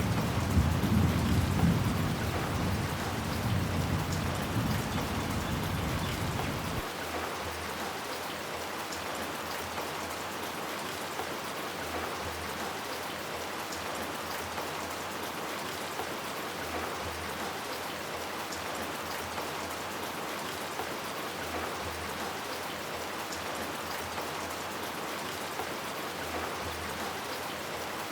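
Steady rain falling, with a low thunder rumble that fades and then cuts off suddenly about seven seconds in, leaving just the even hiss of the rain.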